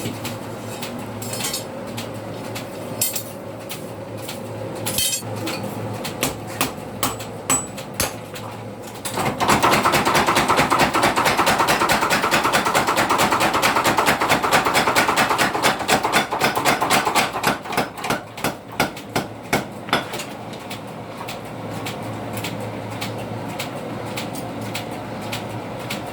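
Blacksmith's hammer striking steel on an anvil while forging. Spaced blows give way about nine seconds in to a louder run of rapid strikes lasting about eight seconds, then a few slower blows that stop near the twentieth second.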